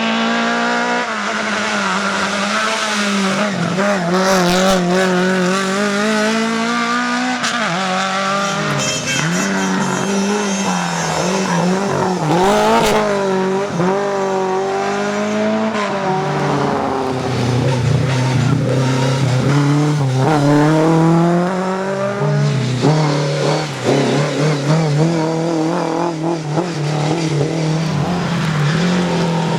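Rally car engines revving hard, the pitch rising and falling again and again as the cars are driven on and off the throttle, with tyre squeal and a few sharp cracks.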